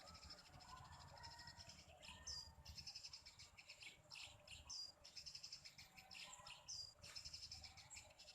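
Small birds chirping faintly in three short bursts about two seconds apart, over a steady high insect buzz.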